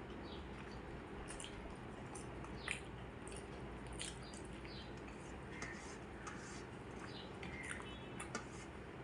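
Eating sounds: soft wet chewing, lip smacks and mouth clicks at irregular intervals from someone eating a rice meal, over a steady low background hum.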